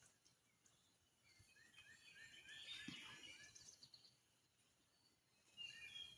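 Songbirds singing faintly: a quick run of about seven repeated short falling chirps with higher notes over them about two seconds in, and another short phrase near the end.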